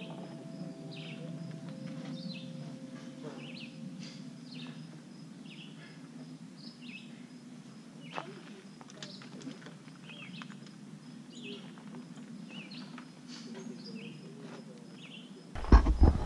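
Small birds chirping in short repeated calls, about one a second, over a faint steady outdoor background. Near the end a sudden loud rush of noise cuts in, like wind or handling on the microphone.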